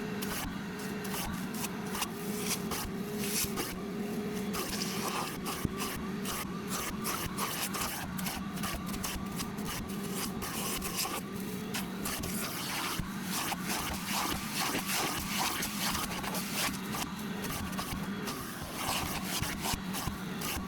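RIDGID portable shop vacuum running with a steady motor hum while an extractor wand is drawn over cloth seat upholstery. The wand scrapes along the fabric in repeated strokes, pulling the rinse water out.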